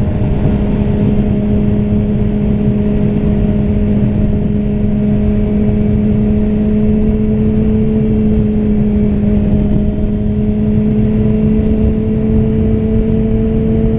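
Yamaha R6 sport bike's inline-four engine pulling steadily at a cruising speed, its pitch held nearly level and creeping up slightly, over a heavy low rush of wind and road noise.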